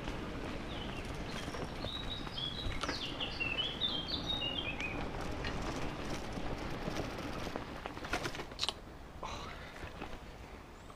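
A small songbird singing a quick run of short chirping notes from about two to five seconds in, over the steady rush of wind and bicycle tyres on the path. A couple of sharp clicks come a little after the middle.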